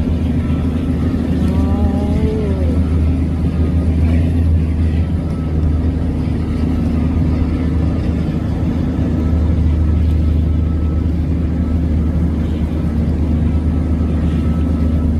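Engine of a river cargo boat towing a line of barges, running with a steady, even low drone.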